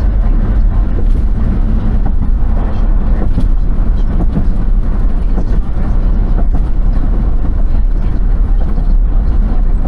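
Steady, loud low rumble of a moving vehicle, with scattered small knocks and rattles.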